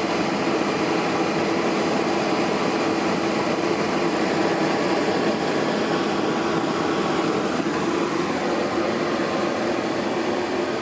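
Rooftop camper air conditioner running with a steady blower hum and rush of air. The owner thinks it is set to fan only, since it is not yet blowing cold.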